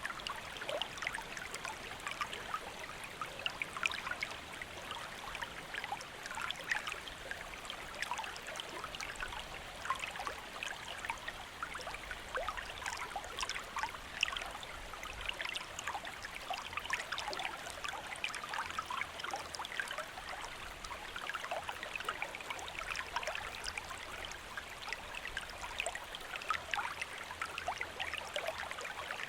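Shallow stream flowing steadily, with many small splashes and gurgles.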